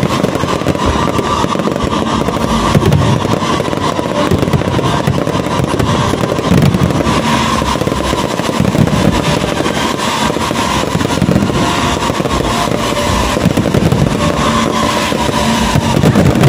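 Fireworks display: aerial shells bursting and ground fountains spraying, a dense unbroken run of bangs and crackling.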